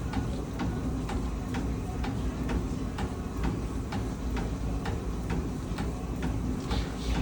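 Exercise bike being pedalled steadily, ticking evenly about twice a second over a low hum.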